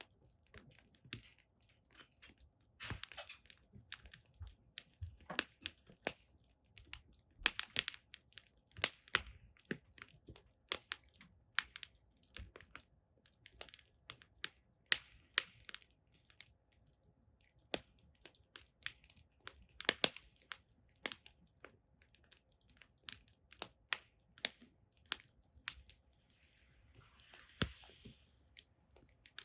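Firewood burning in a fire pit, crackling with irregular sharp pops, a few a second, and a brief soft hiss near the end.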